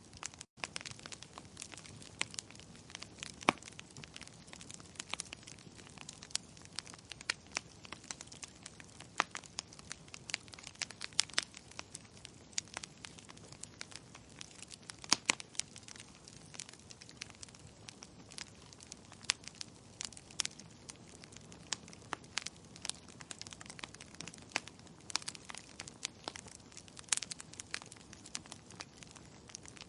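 Wood fire burning with irregular crackles and pops over a soft steady hiss, some pops much louder than others. The sound drops out for an instant about half a second in.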